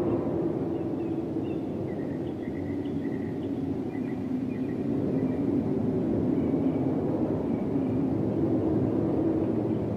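Racing car engine running with a steady low rumble.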